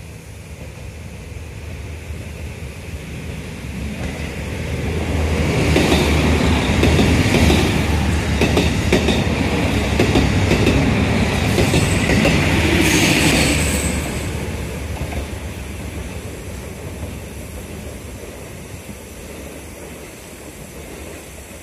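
JR Kyushu diesel railcar train passing: engine hum and wheel clatter build over a few seconds, are loudest for about eight seconds with a brief high wheel squeal near the end of that, then fade away.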